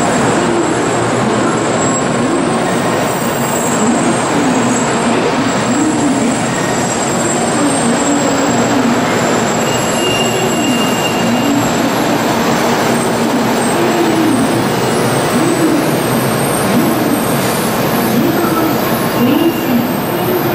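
N700 series Shinkansen train pulling into the station, its cars rolling slowly past the platform. There is a steady rush of wheel and running noise, with a wavering tone that rises and falls over and over.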